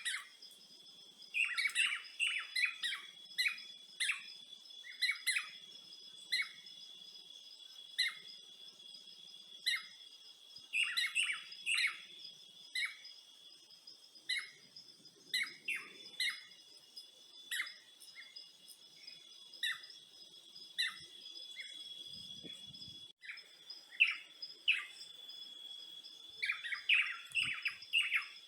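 Wild birds chirping in short repeated notes, some in quick clusters (about 1.5–3 s in, around 11–12 s, and again near the end), over a steady high-pitched drone of several held tones.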